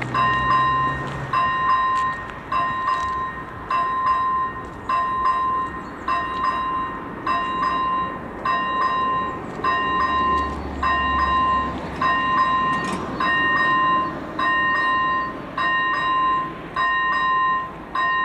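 AŽD E-bell ZV-01 electronic crossing bell ringing, a clear ding repeated at an even pace: the crossing is activated, warning of an approaching train.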